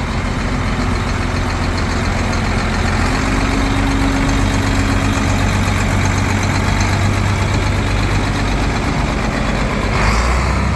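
Diesel engine of a Sinotruk HOWO 8x4 water truck running steadily at low revs, getting a little louder and adding a low tone for a few seconds partway through.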